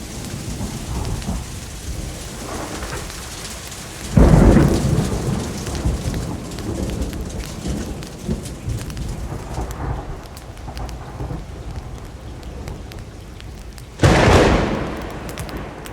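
Steady heavy rain with rolling thunder. Two loud thunderclaps break in sharply, about four seconds in and again near the end, each rumbling away over a second or two.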